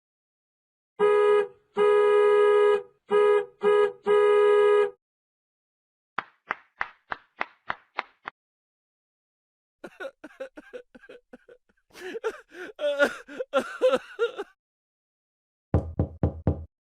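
A string of separate cartoon-style sound effects: a steady horn-like tone honked five times in a short-long-short-short-long rhythm, then a quick run of about eight short plucked notes. After a pause comes a burst of dense, jittery chattering, and near the end a few low, fast pulses.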